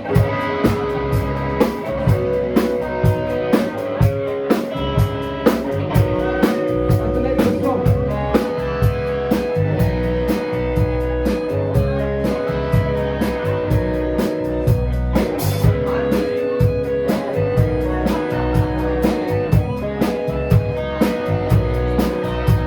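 Live band music with no vocals: guitar over a low bass line and a drum kit keeping a steady beat.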